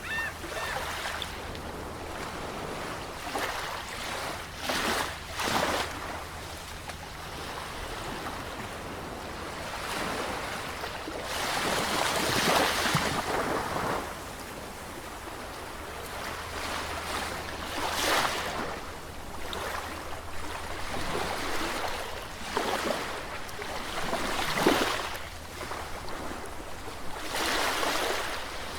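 Sea waves washing in on the shore: surf swells and breaks every few seconds over a constant hiss of water, the biggest surge about twelve seconds in.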